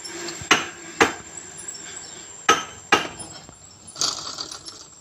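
Four sharp knocks in two pairs, each pair about half a second apart, typical of hard tools or wooden pieces striking wood, then a short scraping rustle about four seconds in.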